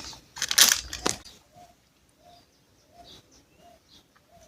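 A brief rustle and knock of handling in the first second. Then a bird calls faintly, a short note repeated about every half second, with a few faint higher chirps.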